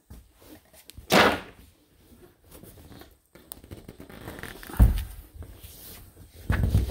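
A short swish about a second in, then dull low thumps near the middle and again near the end: something being opened and handled to let in more light.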